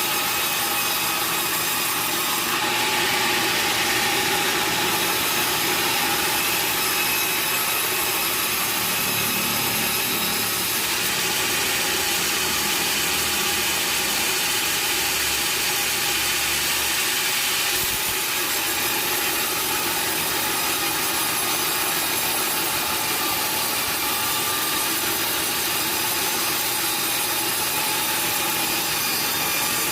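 Sawmill saw running and cutting through wood: a steady high whine over a continuous hiss, with no pauses, a little brighter for stretches as the cut goes on.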